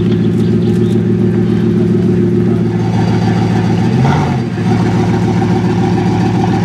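Bugatti Vision GT's W16 engine idling through its quad exhaust, with a brief rise and fall in engine pitch about four seconds in.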